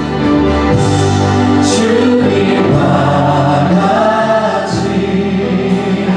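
Church worship music: a choir or congregation singing with instrumental accompaniment, in long held chords.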